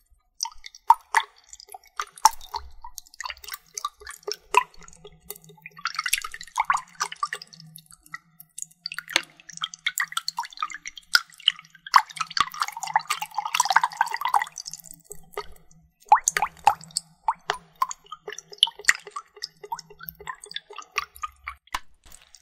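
Close-up water trigger sounds: many small drips and plops, broken by a few longer spells of splashing.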